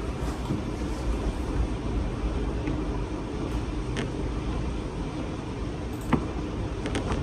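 Strong gusty wind rushing and buffeting the microphone in a steady low rumble, with a few sharp clicks or knocks about four and six seconds in and again near the end.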